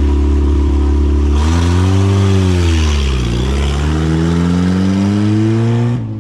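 Classic rally car's engine pulling away: steady at first, then revving up, dropping in pitch as it changes gear about three seconds in, and climbing steadily again until it cuts off abruptly near the end.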